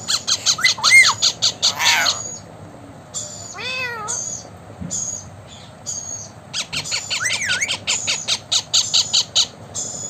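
Indian ringneck parrot squawking: two long runs of rapid, harsh chattering calls, one at the start and one in the second half, with a single short whistle between them.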